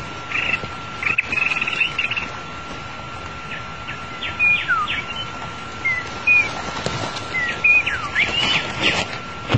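White-rumped shama singing: a scattered run of short whistled notes and quick downward-sliding whistles, busier in the second half, over a steady thin high tone.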